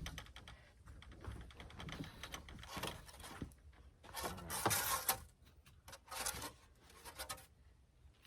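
Scraping, rustling and tearing of building material being handled, in irregular bursts, loudest a little past halfway.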